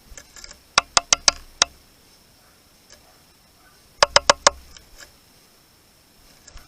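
A bird pecking hard at the feeder close to the microphone: a quick run of five sharp taps about a second in, then four more about four seconds in, with a few softer scratches around them.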